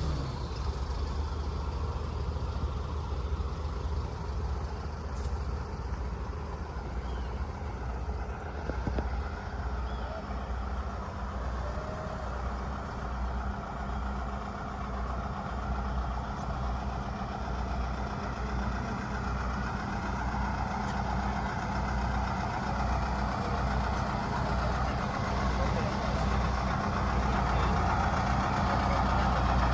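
A large vehicle's engine running at idle, a steady low rumble that grows somewhat louder near the end.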